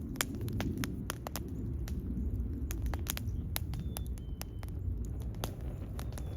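Wood fire burning: frequent, irregular sharp pops and crackles over a steady low rumble of flames.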